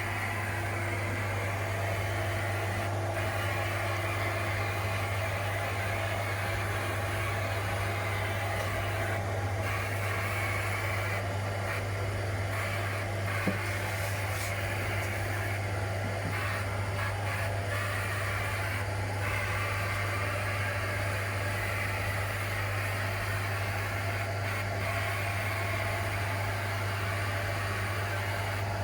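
Steady machine running with a constant low hum and an even hiss, from workshop equipment used for sandblasting or powder coating the parts.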